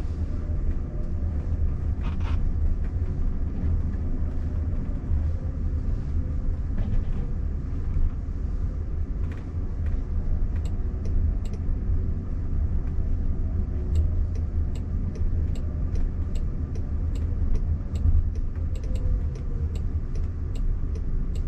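Steady road and tyre rumble inside the cabin of a Waymo robotaxi driving along. From about halfway through, a faint regular ticking of about one and a half clicks a second joins it: the turn signal ticking as the car sets up to pull over.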